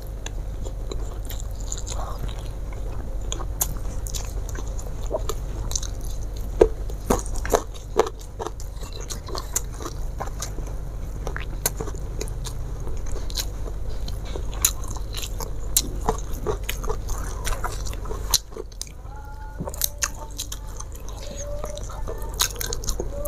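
Close-miked chewing and mouth sounds of a person eating rice and fish by hand, with many short sharp clicks over a steady low hum that drops away about eighteen seconds in.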